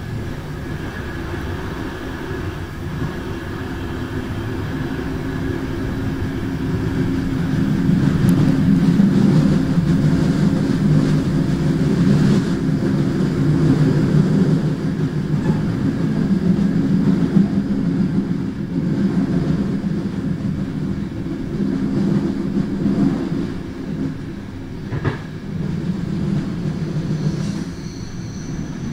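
Passenger train running along the track, heard from its rear door: a steady low rumble of the running gear and wheels on the rails. It grows louder about eight seconds in, and there is a single sharp knock near the end.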